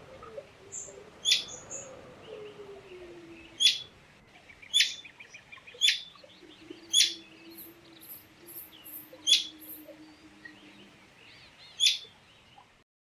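A bird giving short, sharp, loud calls, seven in all, spaced one to two seconds apart, over softer continuous chirping and twittering.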